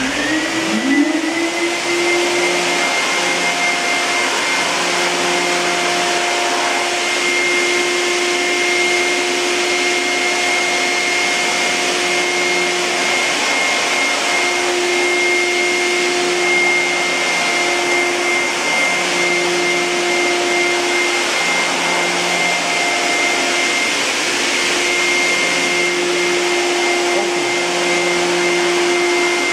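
Industrial wet/dry vacuum cleaner (WD 602) switched on: its motor whine rises in pitch over about the first second as it spins up, then runs steadily with a high whine over a strong rush of air.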